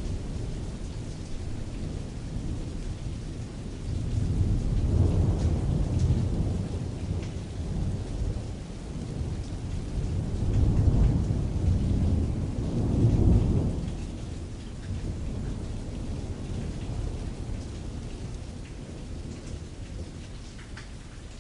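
Rain pattering steadily on canvas, with distant thunder rolling in two deep swells, one about four seconds in and a louder one around ten to fourteen seconds in. The thunder then fades, leaving the rain.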